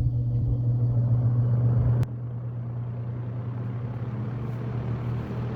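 Vintage box fan's electric motor running with a strong steady hum and the rush of air from the blades. About two seconds in there is a sharp click and the sound drops to a quieter, steady level. The motor's bearing is not yet soaked with fresh oil and is making a noise that is expected to fix itself.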